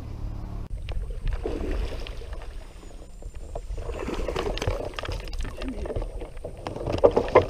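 Water splashing and sloshing, with irregular knocks and clatter that grow busier in the second half.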